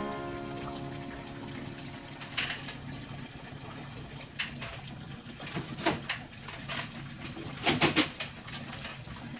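Scattered sharp knocks and clatter of work on an air conditioner over a steady low hum, with a brief pitched sound fading out in the first second or so.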